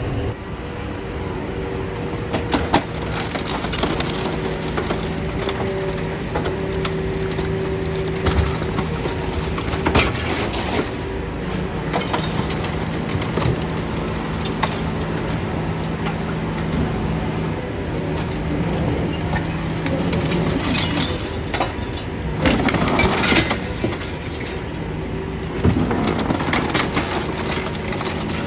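Idromec T 650 CLS scrap metal shear baler at work: the machine's steady hydraulic drone under repeated metallic knocks, cracks and crunching as scrap is crushed and sheared, with louder bouts of crunching about two thirds of the way in and again near the end.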